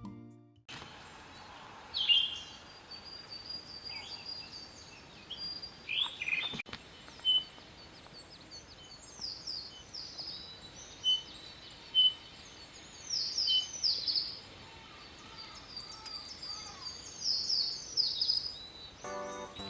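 Wild birds singing and calling: a song phrase of quick high notes sweeping downward comes three times, with short chirps between.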